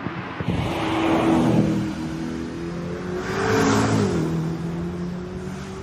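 Race car driving hard past, its motor swelling twice, about a second and a half and three and a half seconds in, with the pitch dropping about four seconds in.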